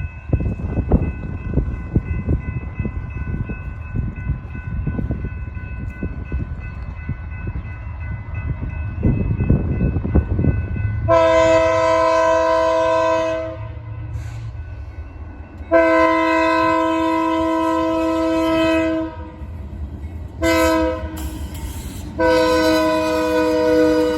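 BNSF freight locomotive approaching, its wheels rumbling and clattering on the rails. About eleven seconds in, its multi-chime air horn sounds two long blasts, a short one and a final long one: the standard grade-crossing signal.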